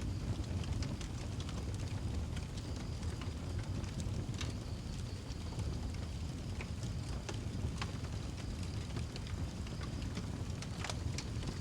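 Wood fire burning in a fireplace: a steady low rumble of flame with scattered crackles and pops, a few sharper snaps about four and a half, eight and eleven seconds in.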